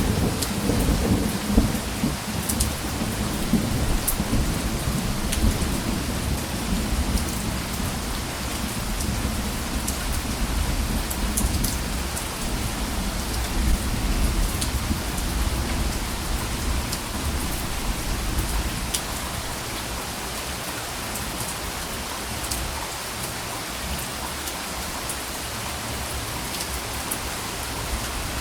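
Steady heavy rain hissing on surfaces, with scattered drop ticks. A low rolling thunder rumble underneath dies away over the first twenty seconds or so.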